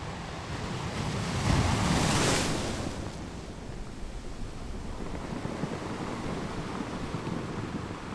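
Ocean waves on a shore: one wave breaks and rushes up about a second and a half in, the loudest moment, then fades into a steadier, quieter wash.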